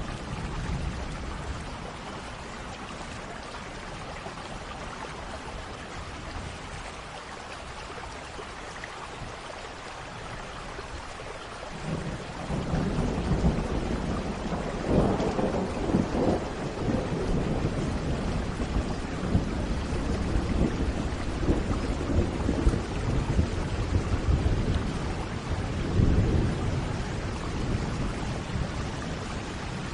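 Thunderstorm: steady rain falling, with thunder breaking in a little before halfway and rumbling on, swelling several times.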